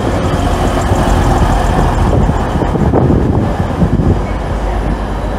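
A train moving through the station, a loud steady rumble that eases slightly near the end.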